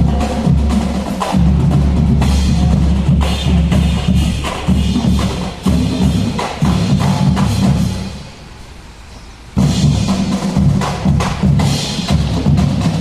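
Marching band drumline playing a dense rhythm on bass drums and snares. It breaks off about eight seconds in for a second and a half, then comes back in at full volume.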